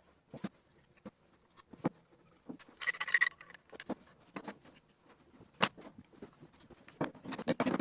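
Wooden toy pieces, such as train track sections and buildings, knocking and clicking as they are handled and set down on a play table, with a brief rattle about three seconds in.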